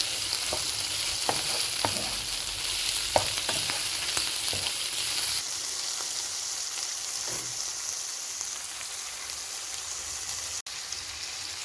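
Squid, shrimp and clams sizzling in hot olive oil in a wok: a steady frying hiss. In the first few seconds there are a few sharp clicks and knocks against the pan as the food is stirred and added.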